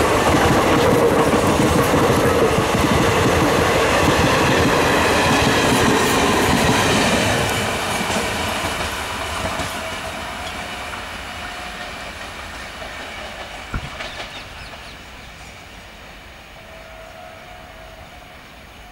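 Indian Railways passenger train running past, its coaches' wheels clattering over the rail joints. The sound is loud for the first seven seconds or so, then fades steadily as the train draws away, with a single sharp clack a little before the end.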